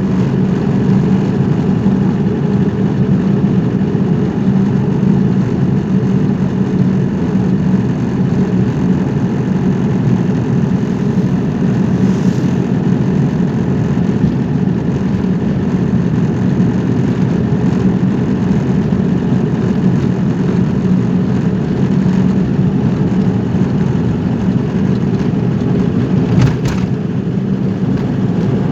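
Car driving: steady engine and road noise, with two brief sharp sounds, one about twelve seconds in and one near the end.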